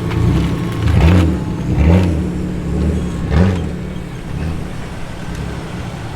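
Deep rumble of car engines at low speed as cars roll past, swelling in a few short surges: about one, two and three and a half seconds in.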